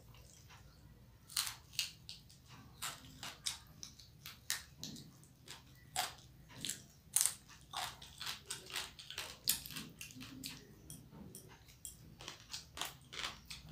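Close-miked eating sounds: a woman chewing a mouthful of rice, fish and chicken, with an irregular run of sharp mouth clicks and smacks, several a second, as her fingers mix the food and bring handfuls to her mouth.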